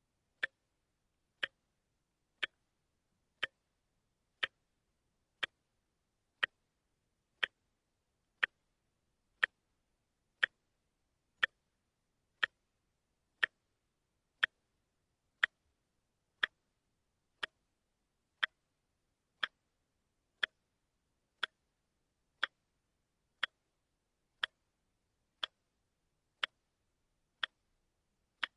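A watch ticking steadily, one sharp tick a second, with silence between the ticks.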